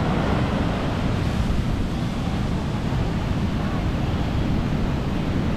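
Sea waves washing onto the beach, a steady noise, with wind noise on the microphone.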